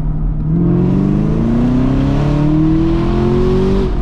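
Supercharged 6.2-litre V8 of a 2020 Camaro ZL1, with its secondary catalytic converters deleted, accelerating hard from inside the cabin. The engine note climbs steadily in pitch for about three seconds, then falls away suddenly near the end as the throttle is lifted.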